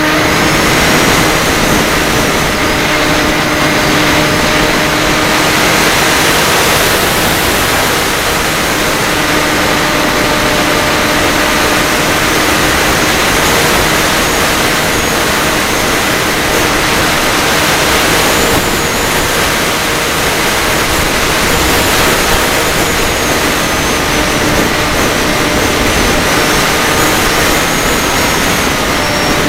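FPV quadcopter's motors and propellers running steadily: a loud rushing hiss with a layered whine whose pitch shifts slightly with throttle.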